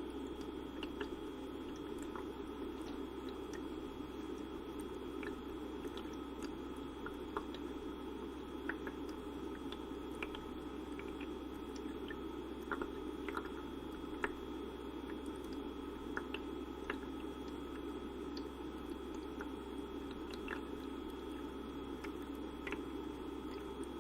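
Humidifier running with a steady low hum and hiss, with scattered faint clicks and pops throughout.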